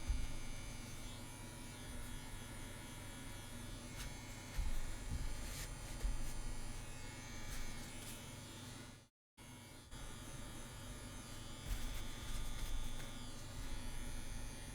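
CNC WE rotary tattoo machine running at about 8 volts, a steady electric buzz as lines are worked into practice skin. The sound cuts out for a moment about nine seconds in.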